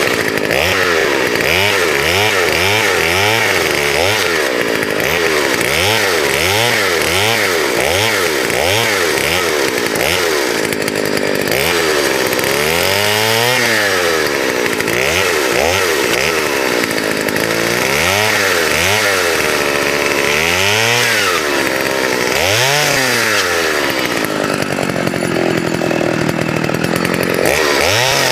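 Partner two-stroke chainsaw revving up and down repeatedly while cutting branches. At first the throttle surges come quickly, about two a second; about halfway through they become slower and longer.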